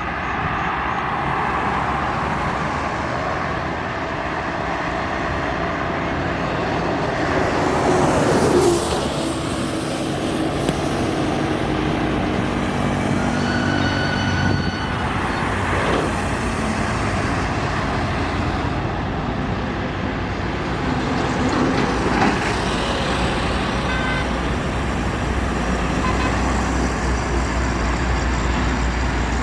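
Steady highway traffic with trucks and cars going by; one vehicle passes close about eight seconds in, its pitch dropping as it goes. A short high tone sounds around the middle.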